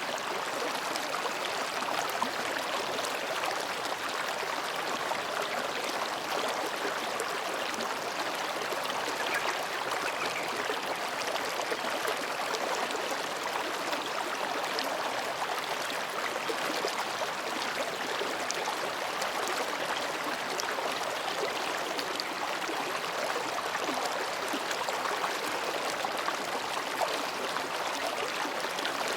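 Mountain stream babbling steadily as it flows between rocks, an even rush of water.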